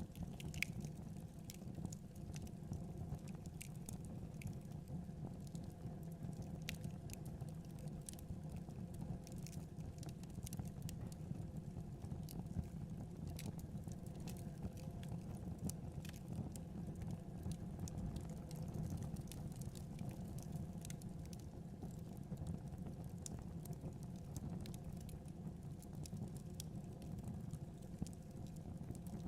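Wood fire burning in a fireplace: a steady low noise from the flames with frequent small, irregular crackles and pops from the burning logs.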